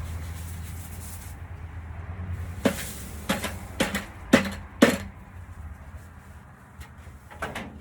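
A low steady hum fading out, then five sharp knocks in quick succession and one more near the end.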